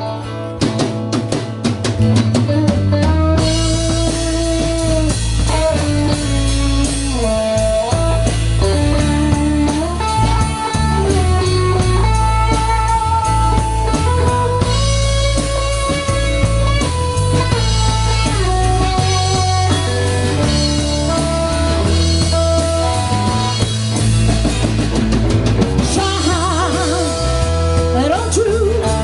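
Live band playing an instrumental break: drum kit, bass and guitar, with a lead line carrying the melody in long held notes. The drums and cymbals come in fully about three seconds in.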